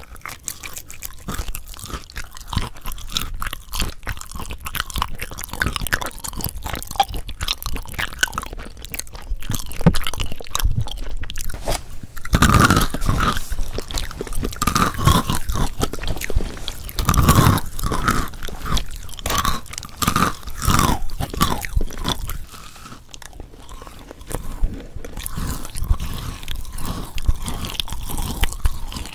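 Close-miked ASMR eating sounds: crisp crunching bites and chewing, a dense run of crackles and clicks.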